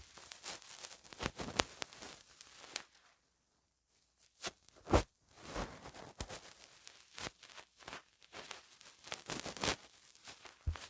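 Soft, scattered clicks and crackles close to a pin microphone, irregular and a few per second, with short near-silent pauses.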